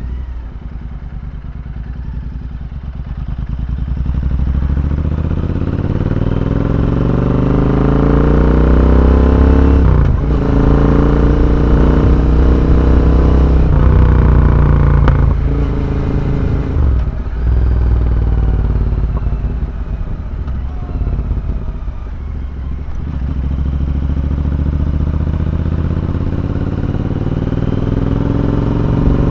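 Royal Enfield Interceptor 650's parallel-twin engine through a full-system Red Rooster exhaust, pulling through the gears. The revs climb, drop sharply at shifts about ten and seventeen seconds in, ease off for a few seconds, then climb again near the end.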